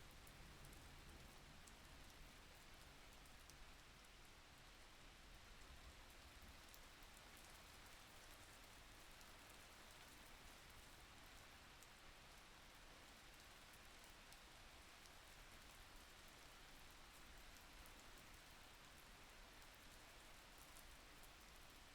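Faint, steady rain with scattered raindrop ticks.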